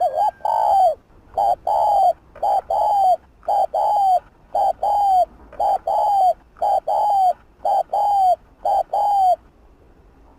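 Spotted dove cooing fast: about nine two-note coos, roughly one a second, each a short note followed by a longer falling one. They stop about nine seconds in. This is the quick coo used to rouse a male dove.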